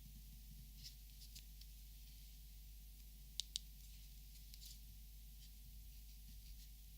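Faint handling of plastic Copic markers: soft scratchy rustles, with two sharp clicks close together about three and a half seconds in.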